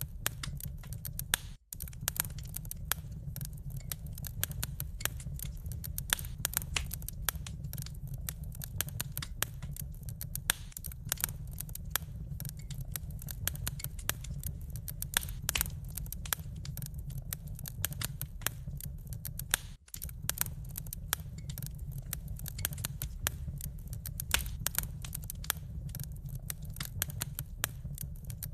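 Wood fire in a fireplace crackling steadily, a dense run of small pops and snaps over a low rumble. The sound cuts out for a split second twice.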